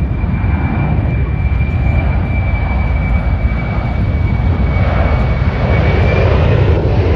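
Airplane engine noise from an air-show aircraft in flight: a loud, steady rumble with a thin high whine that drifts slightly lower and stops about six seconds in.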